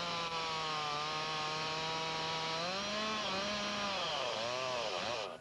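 Two-stroke chainsaw running in a cut, its engine note sagging, then wavering up and down unevenly before it cuts out abruptly near the end. The engine has been set too lean and is seizing.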